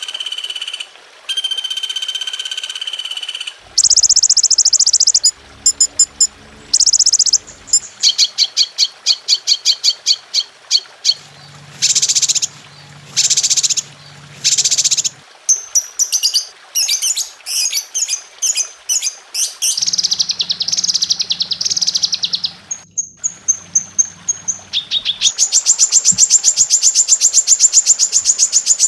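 Recorded songbird calls of several different kinds, spliced one after another: first two held whistled notes, then runs of fast chips and trills. Near the end comes a long, very rapid high trill.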